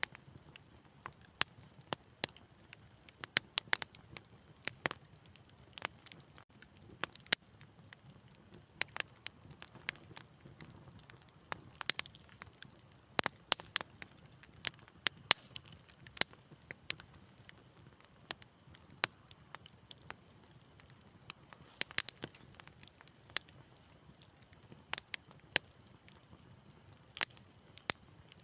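Wood fire crackling: irregular sharp pops and snaps, several a second, over a faint low hiss of burning.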